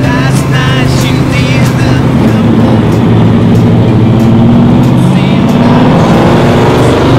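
Car engines running at motorway speed, a loud steady drone that rises in pitch near the end. A brief wavering shout can be heard in the first two seconds.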